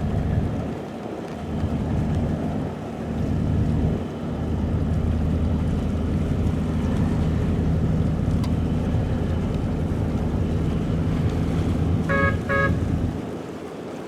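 A boat's engine drones steadily, with wind buffeting the microphone. About twelve seconds in, a horn gives two short toots.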